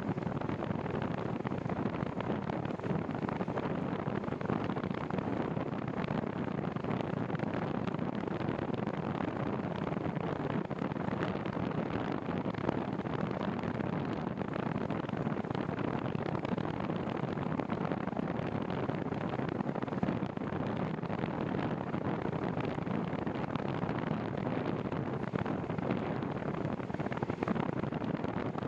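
Steady wind noise rushing over the microphone, an even roar with no let-up.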